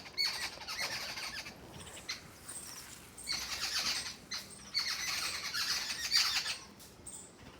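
A flock of small birds chirping and squawking together in bursts, with brief lulls in between and a quieter stretch near the end.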